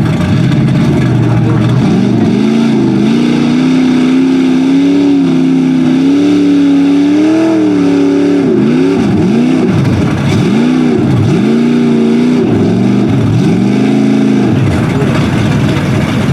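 Lifted Chevy mud truck's engine revving hard while bogging through a mud pit: held at high revs for several seconds, then the throttle is let off and pushed again several times, the pitch dipping and climbing.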